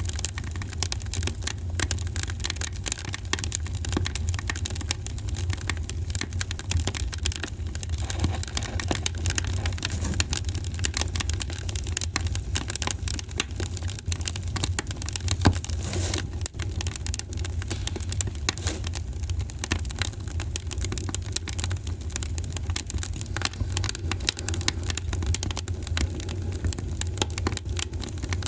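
Wood fire burning in a fireplace: dense, irregular crackling over a steady low rumble, with one sharper pop about fifteen seconds in.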